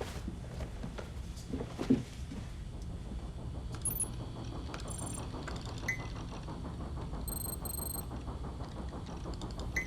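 Steady low electronic hum of an operations room, with a few short high electronic beeps and a couple of soft knocks.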